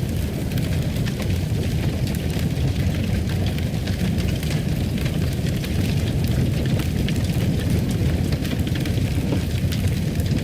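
Fire crackling in a fireplace: a steady low rumble with scattered small pops and crackles.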